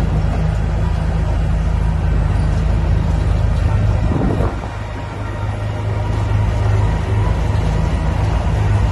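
Diesel engine of heavy earthmoving machinery running steadily with a deep, even hum, dipping briefly in loudness about halfway through.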